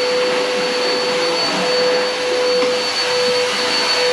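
Carpet cleaner's motor running steadily, a constant whine over a steady rush of air.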